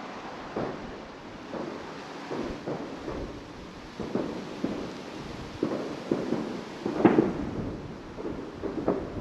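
Fireworks going off around the area: a string of irregular bangs, the loudest about seven seconds in.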